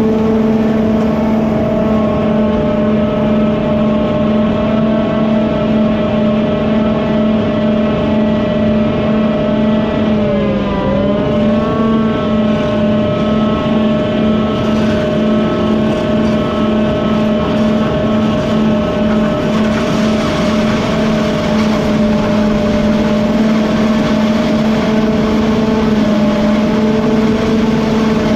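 Farm machine engine running steadily at high revs, its pitch dipping briefly about ten seconds in and picking back up.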